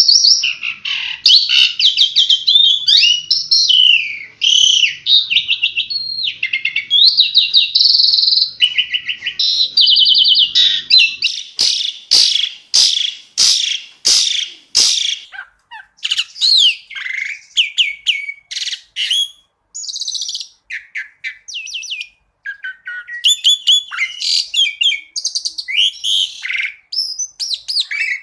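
Pied starling (jalak suren) singing a fast, varied stream of chirps, trills and whistled glides. Around the middle comes a run of sharp, evenly spaced notes, about two a second.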